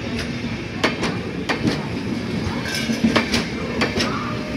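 Indian Railways express passenger coaches rolling past a platform as the train arrives, wheels clacking over rail joints at irregular intervals over a steady low rumble and hum.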